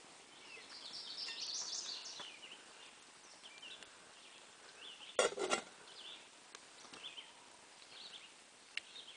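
Songbirds singing and chirping in the woods, one song loudest in the first two seconds. A short, loud rattle of knocks comes about five seconds in.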